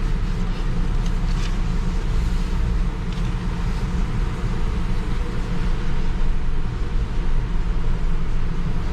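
Steady low rumble of engine and road noise heard from inside the cabin of a 2016 Jeep Wrangler Rubicon.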